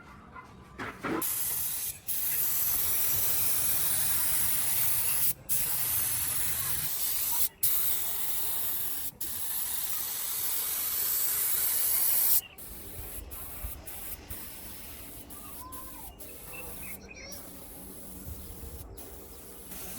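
Compressed air hissing from an air tool in long bursts with a few short breaks, cutting off about twelve seconds in.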